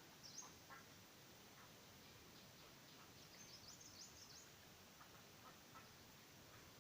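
Faint, high, short peeps of chicks, scattered, with a cluster about three to four seconds in, over a low background hiss.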